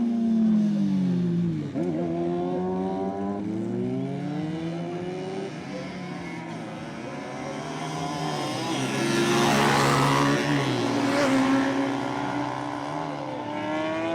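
A performance car's engine revving hard, its pitch climbing and dropping again and again as it is driven. About nine seconds in, a loud rush of tyre squeal lasts a couple of seconds.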